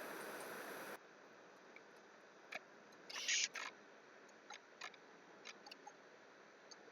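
Scattered light clicks of a computer mouse and keyboard, with a short louder rattle of clicks a little over three seconds in. A steady hiss cuts off about a second in.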